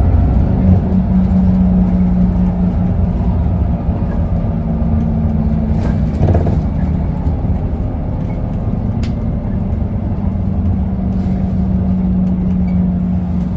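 Interior sound of an Isuzu Erga city bus: its four-cylinder diesel engine and drivetrain give a steady low drone heard through the cabin, with a brief clatter about six seconds in.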